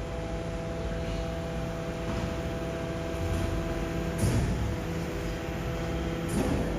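Garbage truck running, a steady drone with a few held tones, with two loud metallic clanks about four and six seconds in.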